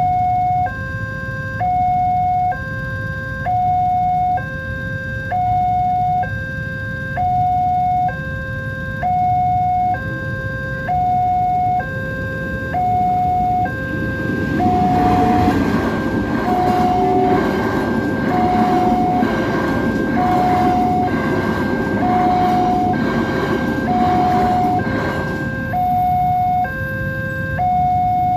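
A level-crossing warning alarm sounds steadily, alternating evenly between two electronic tones, each held under a second. From about halfway, a train passes over the crossing for roughly ten seconds, its wheels rumbling and clattering on the rails, then clears near the end while the alarm keeps going.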